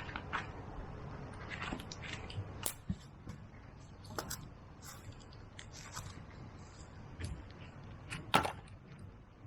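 Irregular light clicks and knocks over a low background hiss, with one louder knock near the end.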